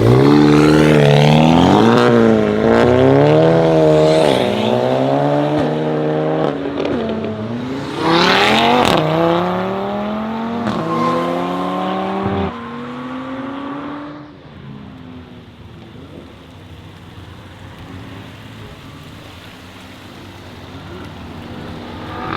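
Modified sports car engines accelerating hard, the pitch climbing and dropping with each gear change. A second sharp, loud burst of revs comes about eight seconds in, and the engines fade away after about fourteen seconds, leaving a quieter steady background.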